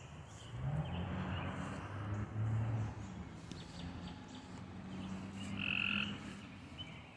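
Low, drawn-out frog croaks, with a short higher-pitched call about six seconds in.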